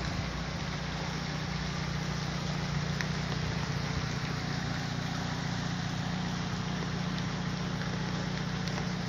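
A car engine idling with a steady low hum, under the even hiss of falling rain.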